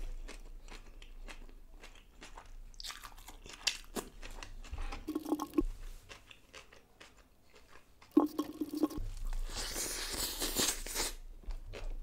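A person chewing and crunching food with the mouth close to the microphone, a run of small wet clicks and crunches. Two short hums of enjoyment come about five and eight seconds in, and a breathy rush near the end.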